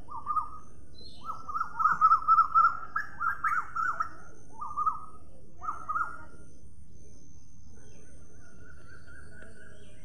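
Bird calling in bursts of quick, chattering repeated notes for about the first six seconds, then a fainter drawn-out call near the end, over a steady low background noise.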